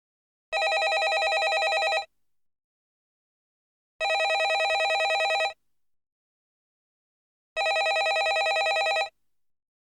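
Landline telephone ringing: three rings of about a second and a half each, with about two seconds of silence between them, each ring a fast, even electronic warble.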